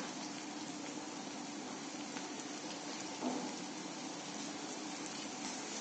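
Ginger, green chillies and ground spices frying in oil in a pan, a soft, steady sizzle.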